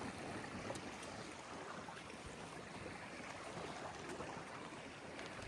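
Quiet, steady outdoor noise of wind and water, with a few faint clicks.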